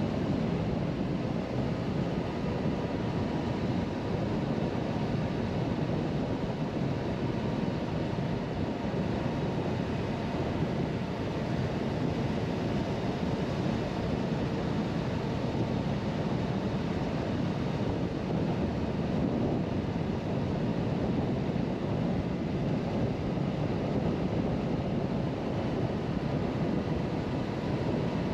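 A Suzuki V-Strom 1050XT motorcycle cruising at a steady speed: wind rushing over the microphone and road noise, with the V-twin engine running evenly underneath and no change in speed.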